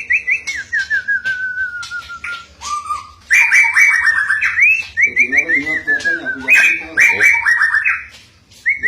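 White-rumped shama singing loudly in rapid runs of short whistled notes: upward-sweeping calls, a falling trill, then fast repeated notes, pausing briefly near the end.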